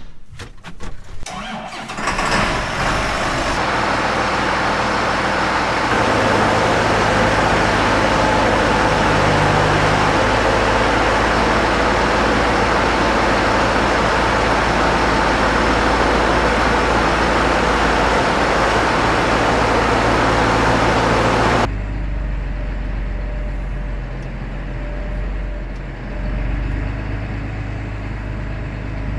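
John Deere 8110 tractor's diesel engine cranking and catching, then running steadily on a cold day. About three-quarters of the way through, its sound suddenly turns quieter and duller while the engine keeps running.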